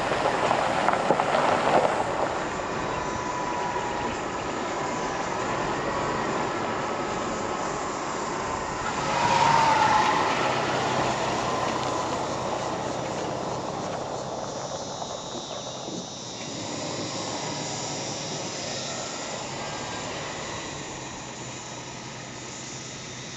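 Car driving along a rough road: steady rumble and road noise with rattles, swelling louder for a few seconds about nine seconds in.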